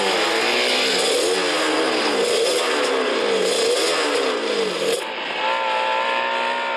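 Vehicle engine accelerating hard through the gears, its pitch climbing and dropping at each shift. About five seconds in it gives way to a steadier engine note.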